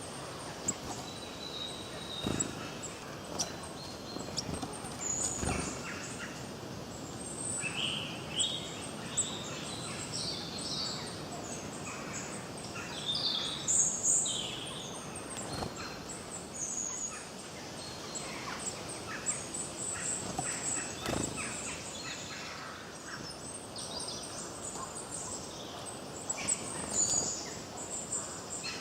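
Several songbirds chirping and singing in short, overlapping phrases over a steady hiss of background noise, with a few soft knocks.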